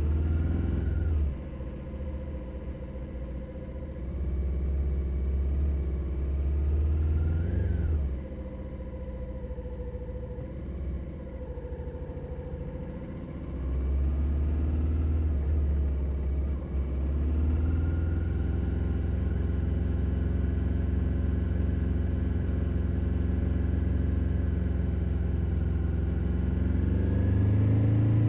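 2021 Suzuki SV650's 645 cc V-twin engine under way, changing with the throttle: a short rise and fall in pitch about eight seconds in, several seconds of quieter running off the throttle, then pulling again and settling into a steady cruise, with the pitch rising near the end as it accelerates.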